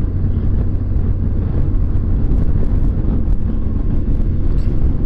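BMW R1200GS boxer-twin engine running steadily at cruising speed, a constant low rumble mixed with road and wind noise.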